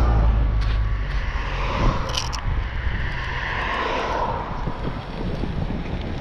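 Wind rumbling on the microphone of a moving bicycle, with road traffic; the rumble is heaviest in the first second.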